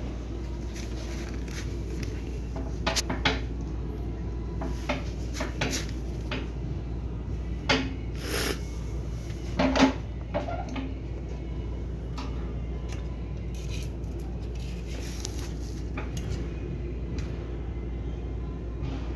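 Metal parts and tools clinking and clanking against each other in irregular bursts, with a steady low hum underneath.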